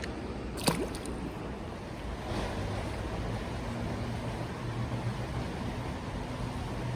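Steady rushing of a small creek with a low hum of traffic in the background, and one brief sharp sound less than a second in.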